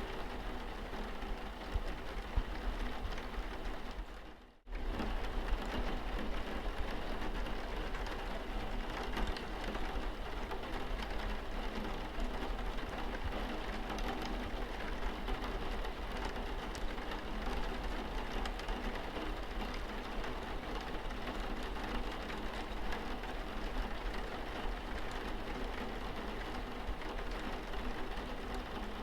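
Rain falling steadily on a car's windscreen, an even patter over a low rumble. About four and a half seconds in it fades out almost to silence for a moment, then cuts straight back in.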